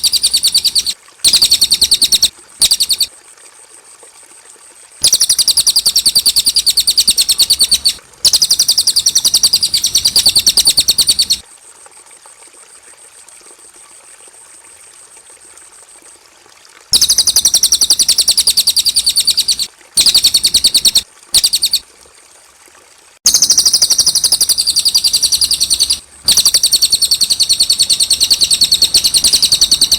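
Cililin singing: a high, rapid trilling song in repeated bursts of one to six seconds, separated by short pauses.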